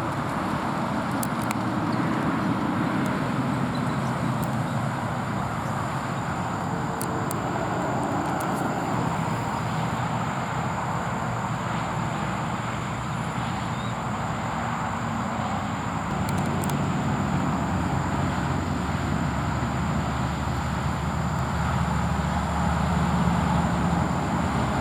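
Steady road traffic noise, with the low engine hum of passing vehicles swelling and fading.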